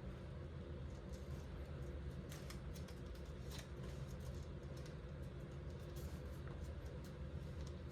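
Faint rustles and crackles of origami paper being folded and creased by hand, a few short ones around the middle, over a steady low hum.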